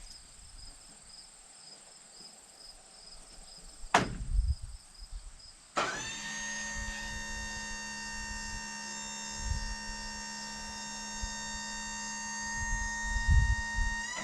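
Faint crickets chirping, a sharp knock about four seconds in, then the Wood-Mizer LT35 sawmill's electric hydraulic pump motor starts abruptly and runs with a steady hum while the mill is lowered back down.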